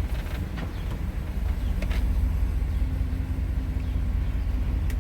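Box truck driving, heard from inside the cab: a steady low engine and road rumble, with a faint steady hum joining about two seconds in and a couple of light clicks.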